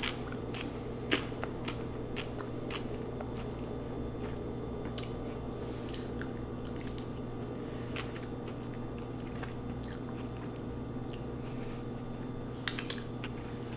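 Close-miked chewing and mouth sounds of a person eating lo mein noodles, with scattered small clicks over a steady low hum.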